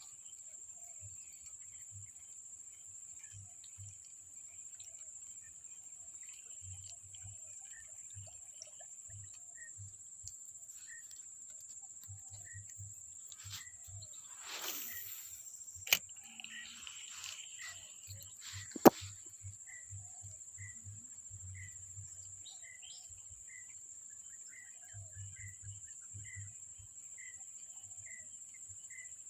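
Steady high-pitched drone of crickets or similar insects, with a short chirp repeating at an even pace through the second half. Two sharp clicks stand out, about halfway through and three seconds later.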